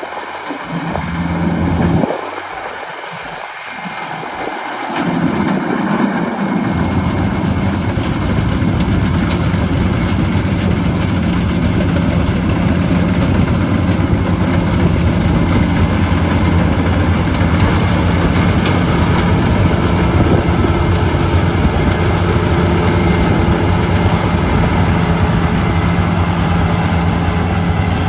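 Combine harvester running in the field: its diesel engine and threshing machinery make a steady, loud drone, fuller and steadier from about six seconds in.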